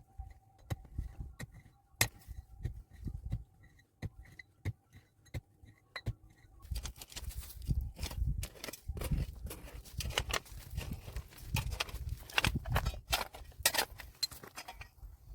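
Handwork with hard objects: light, sharp taps at a steady pace of about three a second, then, from about halfway through, a busier stretch of knocks, scraping and clatter that stops shortly before the end.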